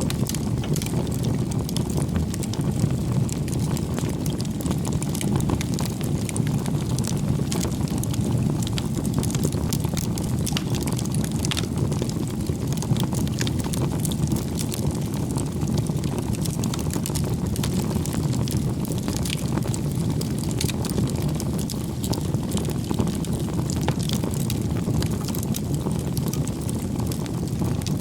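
Wood campfire burning: a steady low rush of flame with frequent small crackles and pops from the burning firewood.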